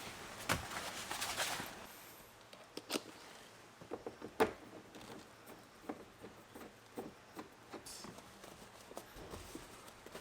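Rustling for the first couple of seconds, then scattered light clicks and taps of small parts being handled.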